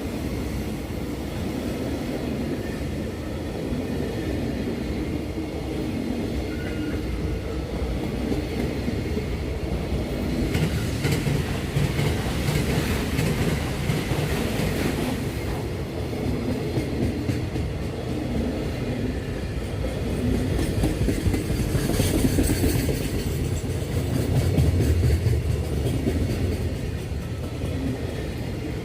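Freight train passing, a continuous rumble of wagons and wheels on the rails that swells louder about halfway through and again near the end.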